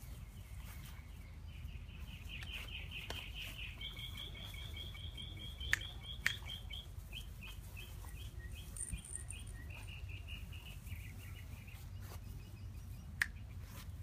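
A songbird singing a long run of rapid, evenly repeated high chirps, starting a second or two in and stopping a few seconds before the end. Three sharp clicks stand out above it, two in quick succession near the middle and one near the end.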